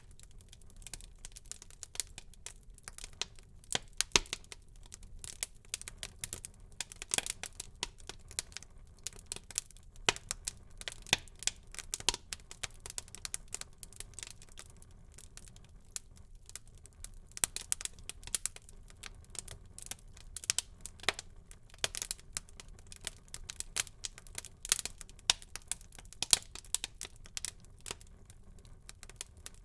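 Wood fire burning in a fireplace, crackling with many irregular sharp pops and snaps over a faint low rumble of flame.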